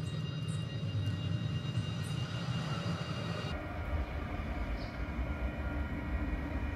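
Adelaide Metro 3000-class diesel railcar approaching along the track, its engine and running gear giving a steady low rumble. The rumble deepens and strengthens about halfway through.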